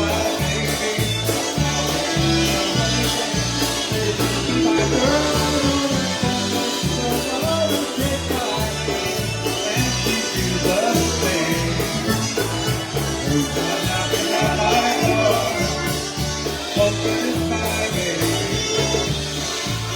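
Polka band playing live: a steady oom-pah bass pulse under the melody, with singing.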